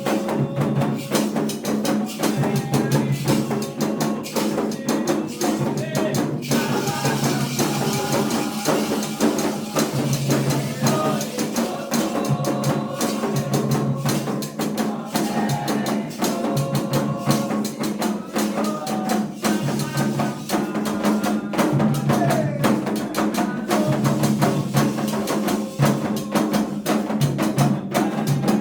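Candomblé ritual music: atabaque hand drums and a struck bell keeping a steady, driving rhythm, with voices singing over it.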